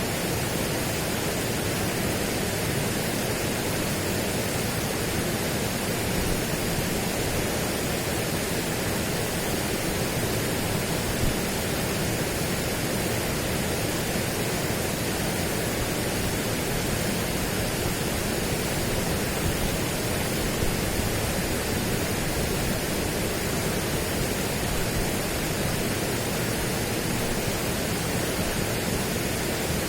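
Steady, unchanging rushing noise spread evenly from deep to high pitch, with no separate events.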